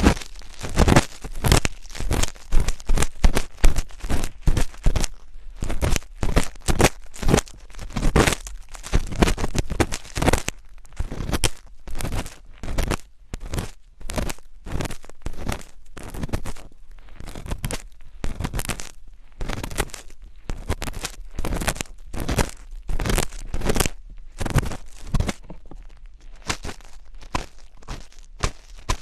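Close-miked ASMR scratching on the microphone: rapid, irregular crackly strokes.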